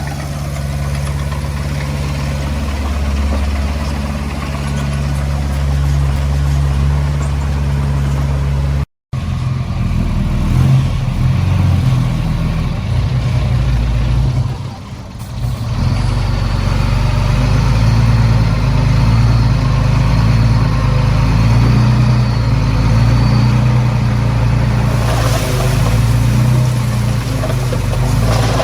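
Diesel engine of heavy earthmoving machinery running under load, steady and low-pitched, with a brief silent break about nine seconds in where the sound cuts out.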